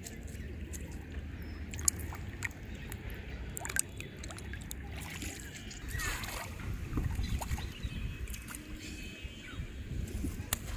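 Outdoor ambience at the water: light water sloshing under a steady low rumble, with many scattered small clicks and taps.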